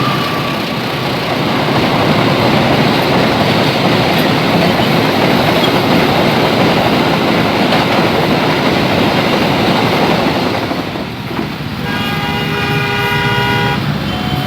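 A train passing over a road level crossing: a loud, steady rumble and rattle of wheels on the rails that eases off about eleven seconds in. Near the end a horn sounds with a steady chord-like note.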